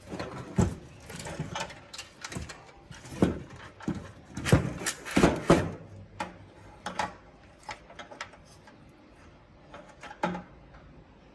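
Irregular clicks, knocks and short scrapes of radio parts being handled by hand, with a busier run of louder knocks around the middle, then sparser clicks and one last knock near the end.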